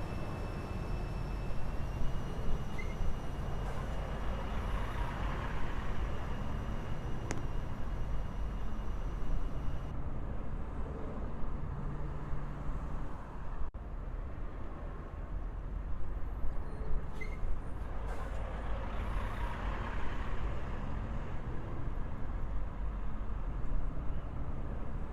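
Freight train of autorack and intermodal cars rolling past: a steady low rumble with frequent clattering peaks from the wheels on the rails, and a faint high steady whine through the first ten seconds or so.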